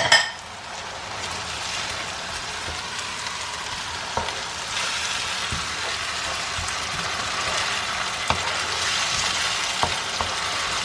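Onion, garlic, tomato paste and adjika sizzling in clarified butter in a frying pan, a steady frying hiss that grows a little stronger about halfway through, with a few light clicks as it is stirred.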